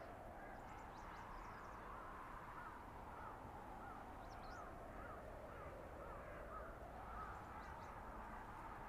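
Steady blizzard wind blowing through a winter forest. In the middle, a bird calls in a quick run of short, repeated notes, about three a second.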